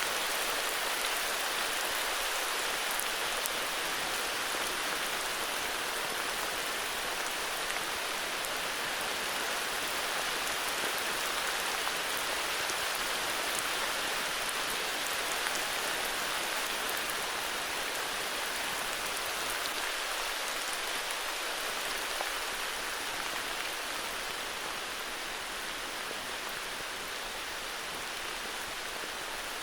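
Heavy rain falling steadily: a dense, even hiss of countless drops, easing slightly near the end.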